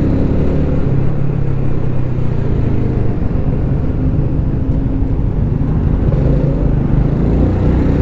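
Yamaha Lagenda 115ZR moped engine running at low speed while creeping through slow traffic, its note rising and falling a little, over a steady rushing hiss.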